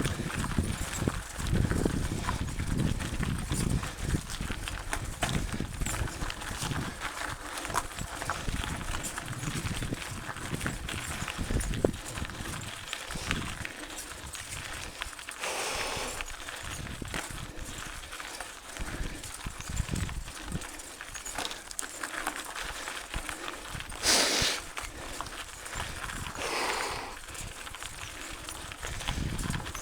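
Mountain bike rattling and knocking over a rough dirt trail, with tyre and wind rumble. A few short rushes of noise come in the second half, the loudest about three quarters of the way through.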